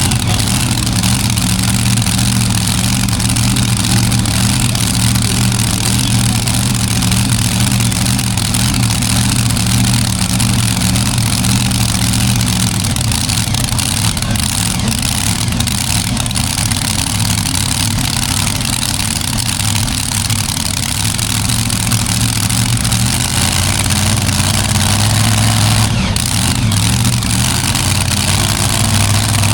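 Heavy truck engine running at a steady pitch, its tone shifting about midway through and coming back near the end.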